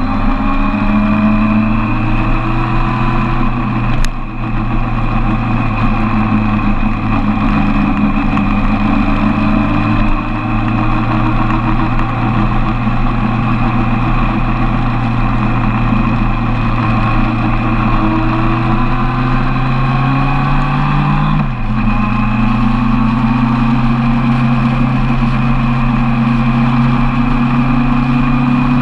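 Suzuki Bandit 1200's inline-four engine pulling the motorcycle along, its pitch climbing steadily, then dropping sharply at a gear change about twenty-one seconds in before climbing again. Wind and road noise run under it throughout.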